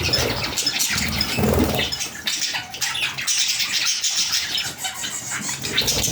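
Budgerigars chirping and chattering, with many short, overlapping calls.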